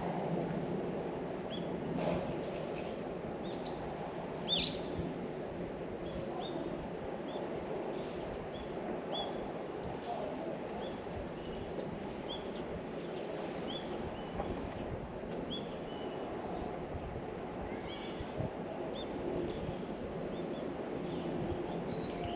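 A small bird chirping again and again, short high calls about once or twice a second, with a louder call about four seconds in, over a steady low background rumble.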